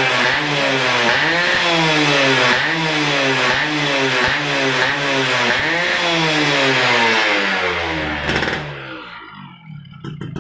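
Yamaha F1ZR two-stroke single-cylinder engine with an AHM aftermarket exhaust, revved up and let back down over and over, about once every second and a half. The engine sound falls away sharply near the end.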